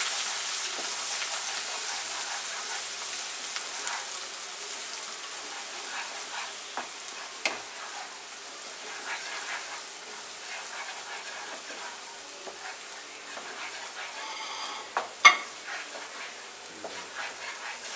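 Onion paste and ginger-garlic paste sizzling in hot oil in a kadai while a wooden spatula stirs it. The sizzle eases off a little over the first few seconds, and the spatula taps sharply against the pan now and then, most clearly twice.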